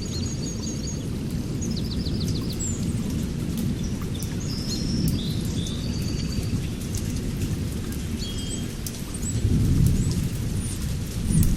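Thunderstorm: a low rumble of thunder that swells twice toward the end, with rain pattering and birds chirping and trilling over it.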